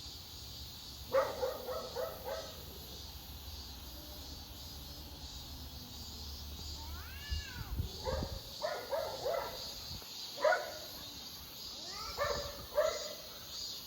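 A small dog barking in short runs of quick, high yips, three or four at a time, repeated several times, with one drawn-out rising-and-falling call about seven seconds in.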